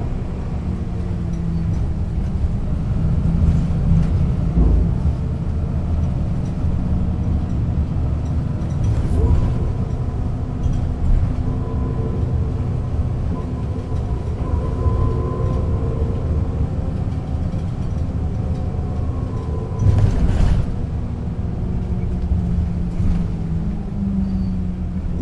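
A 1996 Setra S 315 UL bus under way: its diesel engine runs with a steady low rumble, and a gearbox whine rises and falls with road speed, dropping in pitch near the end as the bus slows. A couple of sharp knocks come through, about nine and twenty seconds in.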